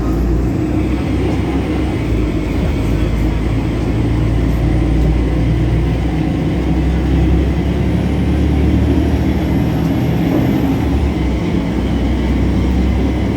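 Solaris Urbino 18 articulated bus under way, its DAF PR265 inline-six diesel running with a steady drone, the loud belt noise of this engine mixed in. A thin high whine rises faintly about eight seconds in.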